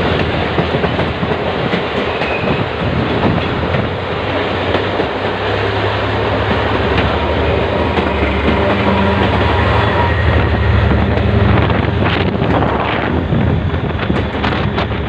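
Diesel-hauled passenger train running at speed: wheels clattering over the rail joints, with a steady low diesel engine drone that comes up about five seconds in.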